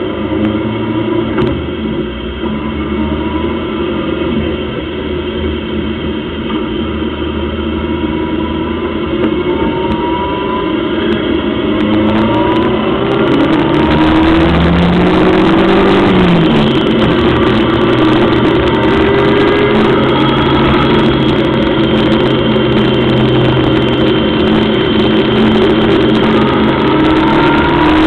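1300cc Locost race car's engine heard from on board, running steadily at low revs, then from about twelve seconds in accelerating hard and louder, the pitch climbing through each gear and dropping sharply at the upshifts.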